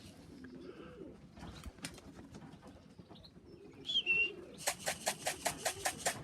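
Pigeons cooing low and continuously, with a short high falling whistle about four seconds in. In the last second and a half comes a quick run of about ten sharp clatters, around six a second, the loudest sound here.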